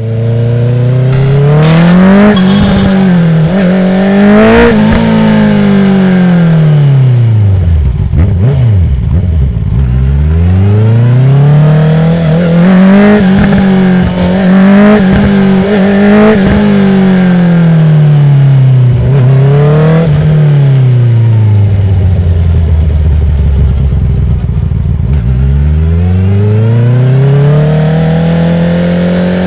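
2019 Honda CB650R's inline-four through an Akrapovic full titanium exhaust with the dB killer removed, ridden hard. The revs climb and drop several times as it pulls through the gears with quick clutchless quickshifter upshifts, then fall away on deceleration with pops and bangs on the overrun.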